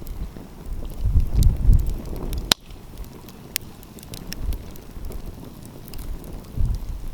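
Wood fire crackling with scattered sharp pops, one louder snap about two and a half seconds in. Low gusts of wind buffet the microphone, strongest in the first half.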